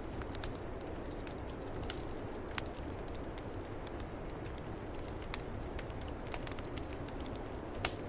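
Wood fire crackling in a fireplace, with scattered sharp pops, the loudest near the end, over a steady low rumble of snowstorm wind.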